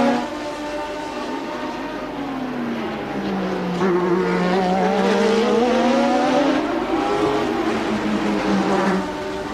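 1988 Formula One car engine running at race speed, its pitch sagging and climbing through gear changes and throttle. It gets louder about four seconds in and drops back near the end.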